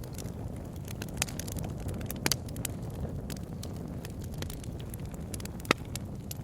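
Wood bonfire crackling, with frequent sharp pops and snaps over a steady low rumble; one loud pop comes near the end.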